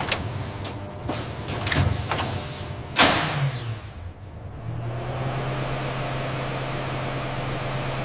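Industrial machinery sounds: a few sudden hissing, pneumatic-like strokes, the loudest about three seconds in, then a steady low machine hum from about five seconds on.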